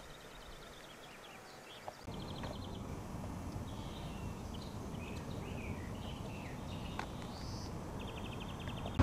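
Small songbirds chirping and giving rapid trills over a low steady outdoor rumble, which gets louder about two seconds in.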